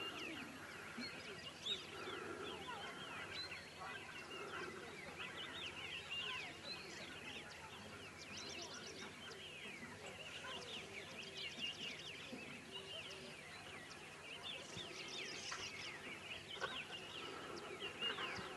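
Many birds chirping and calling at once, a dense chorus of short rising and falling notes.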